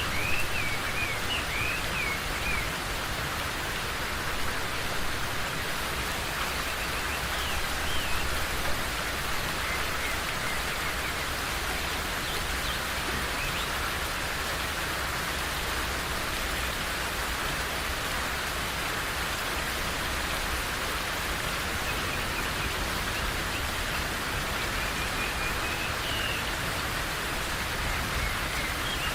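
Steady rain falling in a forest, with small birds chirping in short bursts near the start, again about eight seconds in, and near the end.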